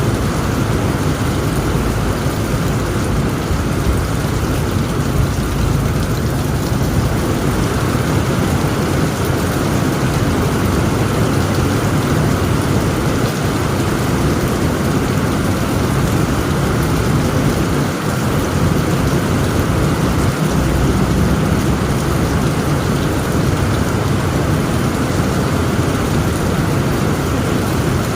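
Heavy rain pouring steadily onto a tent roof, with a deep, steady rumble of thunder underneath.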